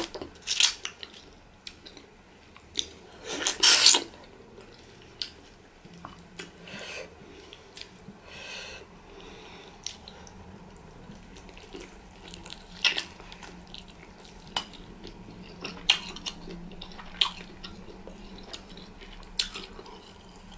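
Close-miked eating sounds: wet chewing, lip smacks and finger-sucking as pounded yam fufu and soup-soaked meat are eaten by hand, heard as many short sharp clicks with a louder wet burst about three to four seconds in. A faint steady low hum comes in about six seconds in.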